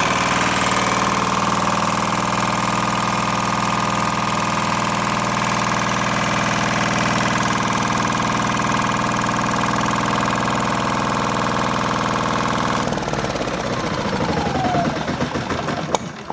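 Small diesel engine, cranked into life by an Ecycle brushless motor, running steadily at a constant speed and turning the motor as a generator. About 13 seconds in the sound changes and winds down with a falling whine as the engine stops.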